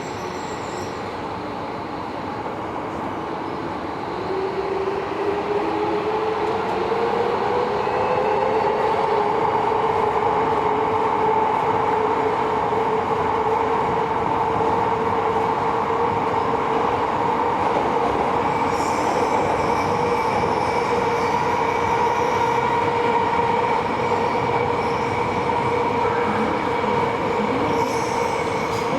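Running noise inside a Tobu 70000 series subway car in the tunnel: a steady rumble of wheels on rails that grows louder about five seconds in. Over it a whine rises in pitch and then holds steady for the rest of the time.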